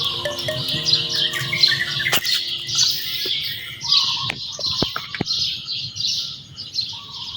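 Small birds chirping in quick repeated high notes, a few per second, with held musical tones under them for the first two seconds and a few sharp clicks about two-thirds of the way in.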